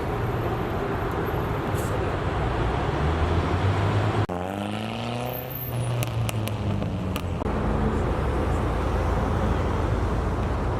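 Car engines running in a parking lot. About four seconds in, one engine's note falls away.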